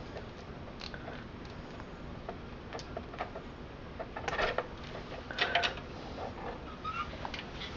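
Scattered light clicks and rustles of wire ties and cables being cut and handled inside a computer case, with two busier bursts of clicks about four and five and a half seconds in.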